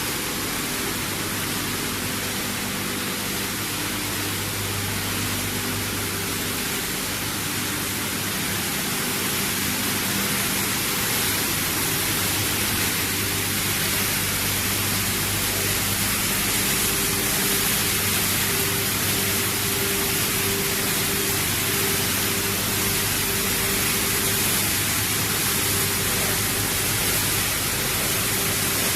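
Machinery of a PET bottle washing and recycling line running: a steady loud hiss with a low motor hum that swells and fades.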